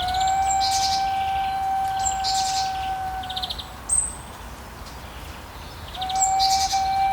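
Indigenous flute holding one long, steady note that fades out after about three and a half seconds, with a new note starting near the end. Birds chirp and trill throughout, and are heard alone in the gap between the notes.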